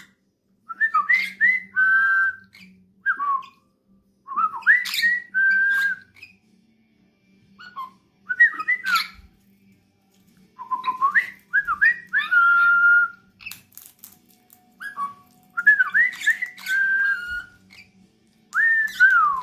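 Dusky pionus parrot whistling: short phrases of quick rising and falling whistled notes, some held briefly, repeated in about six bouts with pauses of a second or two between them.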